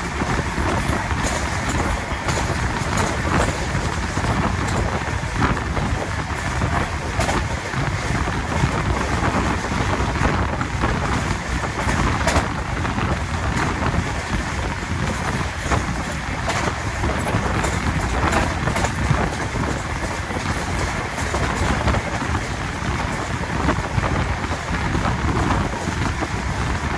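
Passenger train running at full speed, heard from beside the coaches: a steady rumble with a running clatter of wheels over the rails, and wind rushing past the microphone.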